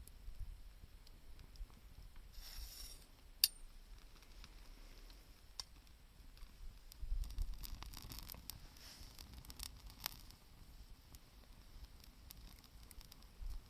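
Wood campfire crackling, with scattered sharp pops and a busier patch of crackles a little past the middle.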